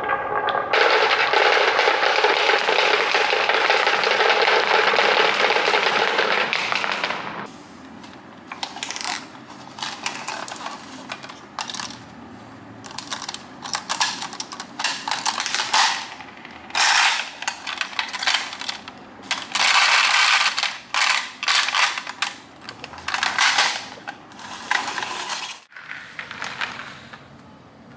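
Marbles rolling and clattering on a marble run: a dense, continuous rattle for about the first seven seconds, then a string of separate short clattering runs.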